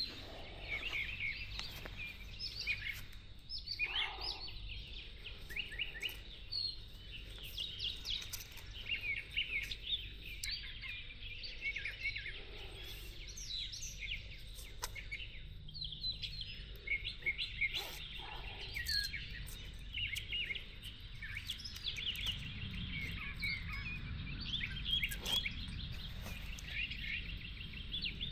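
Several songbirds chirping and singing without a break, in quick overlapping high trills, over a low steady rumble.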